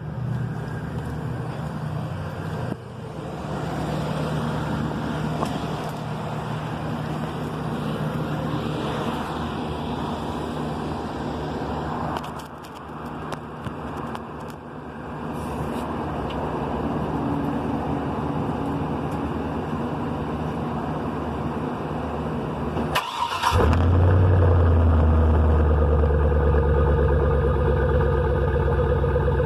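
A steady background rumble and hiss for most of the clip. About 23 seconds in, the 2003 Cadillac Escalade's 5.3 L Vortec V8 cold-starts and settles into a loud, deep idle through a Cherry Bomb Extreme single-chamber muffler with a large exhaust tip.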